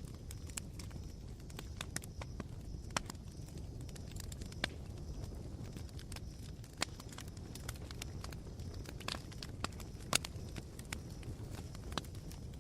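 Campfire of smouldering coals crackling, with irregular sharp pops, a few louder than the rest, over a steady low rumble.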